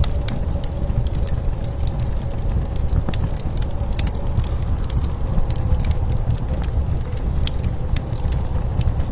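Wood fire crackling with many irregular sharp pops, over a steady low rumble of blizzard wind.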